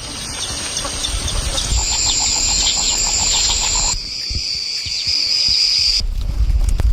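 Wild outdoor ambience: a steady high-pitched insect drone with bird calls over it, the drone shifting abruptly in pitch two or three times, and a low rumble underneath.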